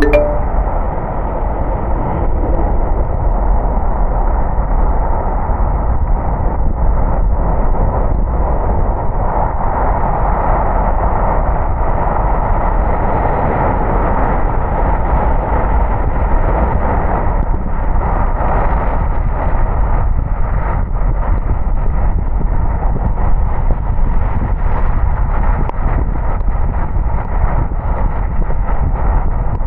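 A car driving on a wet road in the rain: steady, muffled road and tyre noise that stays even throughout, with faint irregular ticks. A short click with a brief tone comes right at the start.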